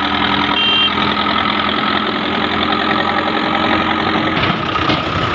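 Diesel engine of a tractor or backhoe loader running steadily at idle.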